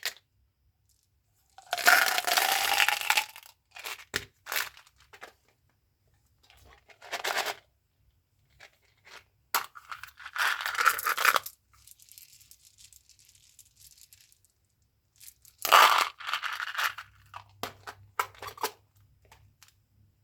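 Gum and candy packaging being torn open and crinkled by hand in several separate bursts of tearing and rustling, with small clicks and taps between them. The loudest bursts come about two seconds in and again near the end.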